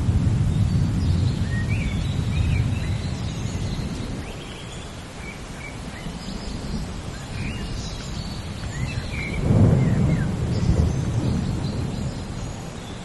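Thunderstorm with steady rain: a low thunder rumble fades over the first few seconds, and a second, louder roll of thunder comes about nine and a half seconds in and dies away. Birds chirp in between.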